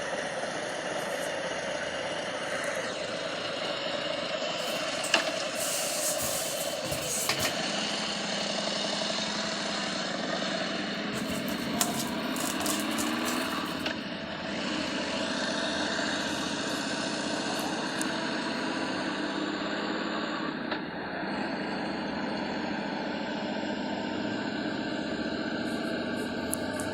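Motorcycle engine running on the move through city streets, its pitch rising and falling with the throttle. A few sharp clicks, the loudest about five seconds in.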